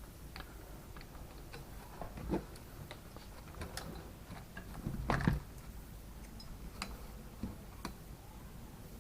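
Small metal parts and bolts being handled and fitted, giving irregular light clicks and taps, with a louder cluster of knocks about five seconds in.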